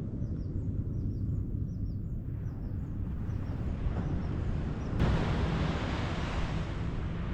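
Wind buffeting the microphone as a steady low rumble, with surf washing on the beach that swells into a louder rush about five seconds in. A row of faint, short, high chirps sounds during the first few seconds.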